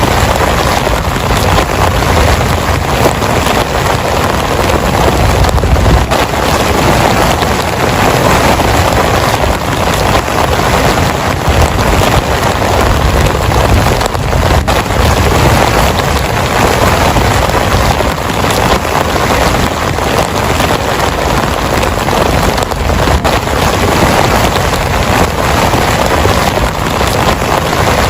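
Heavy rain pouring steadily and densely, with a low rumble underneath that swells and fades.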